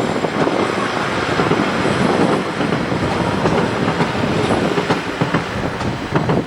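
Class 50 diesel locomotive's English Electric 16-cylinder engine running loudly on a cold start, with a few sharp clicks over the steady noise.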